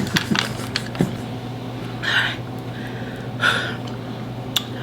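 Two short, sharp breaths or hisses about a second and a half apart, from someone whose mouth is burning after eating an extremely hot chili-pepper chip. A few light clicks of small objects being handled come in the first second, and one more comes near the end.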